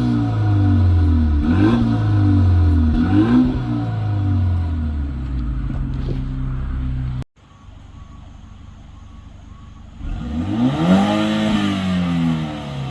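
Exhaust of a BMW 328i's N26 turbocharged four-cylinder with the resonator deleted, blipped twice in quick revs and then idling. After a sudden cut the sound drops quieter, then one longer rev rises and falls near the end.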